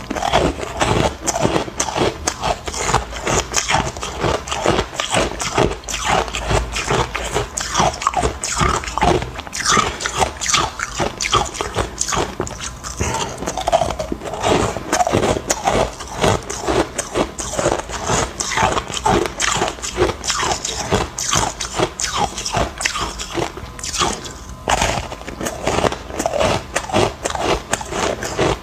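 Close-up crunching of hard ice chunks being bitten and chewed, a dense run of crisp crunches several times a second, with a brief lull near the end.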